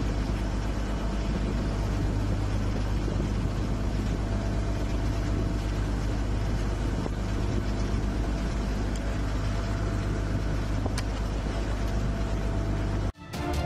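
Boat engine running steadily with a low, even hum. It cuts off suddenly near the end, and music comes in.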